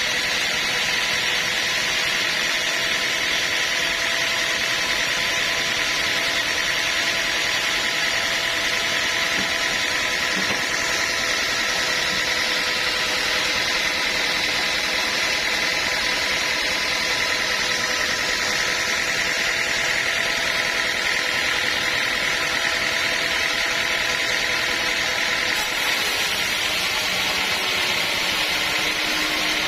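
Sawmill machinery running steadily, a constant mechanical hum with a whine on top. A little before the end the sound shifts, with more high hiss and a lower tone coming in.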